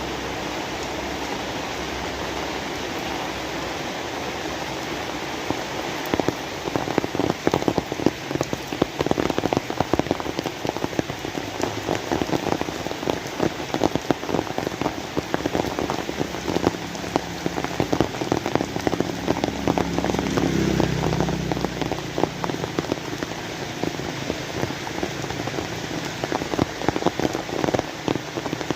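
Steady rain falling. From about six seconds in, a dense patter of heavy drops strikes a surface close by.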